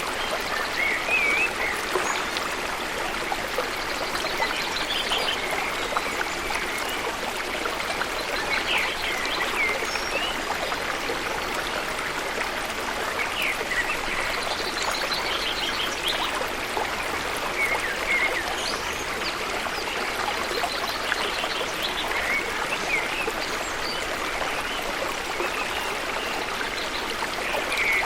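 Steady rush of flowing water at a waterfall, with birds giving short chirping calls and quick trills every few seconds over it.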